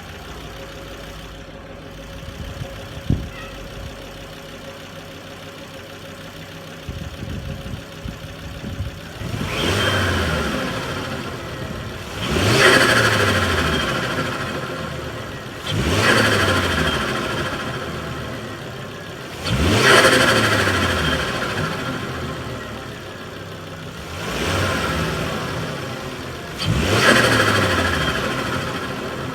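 Turbocharged Ford S-Max engine idling, then revved five times, each blip rising sharply and sinking slowly back to idle. With the turbo recirculation valve blanked off, the turbo flutters as the throttle closes.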